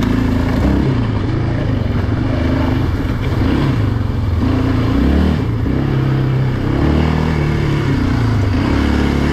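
Yamaha Raptor 700R ATV's single-cylinder four-stroke engine running while riding, its pitch stepping up and down every second or so as the throttle opens and closes.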